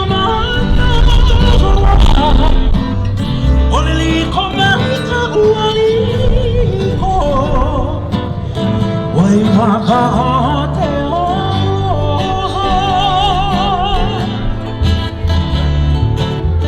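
Live Hawaiian song: voices singing a melody with vibrato over guitar accompaniment and a steady low bass line.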